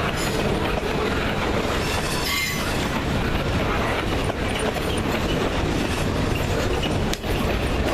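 Freight train rolling past steadily, with a brief high-pitched wheel squeal about two and a half seconds in.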